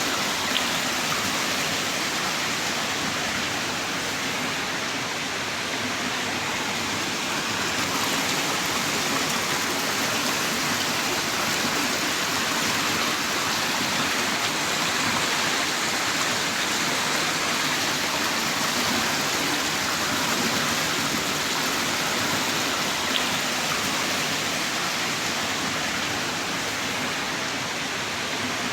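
Heavy rain pouring down in a steady, even hiss, with a few faint drop ticks.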